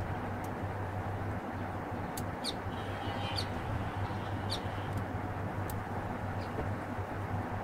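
Steady outdoor background noise with a constant low hum, and a few short, high bird chirps in the middle.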